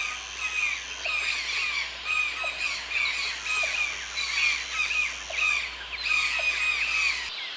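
Toucan calling: a repeated high call about twice a second that cuts off suddenly near the end.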